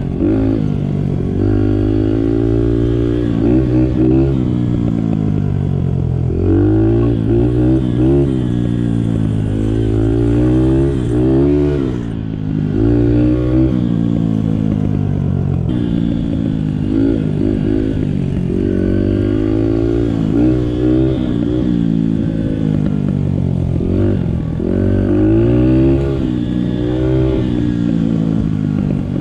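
Small Honda 50cc dirt bike's single-cylinder four-stroke engine running on the move, its pitch climbing and dropping back again and again as the throttle is opened and closed.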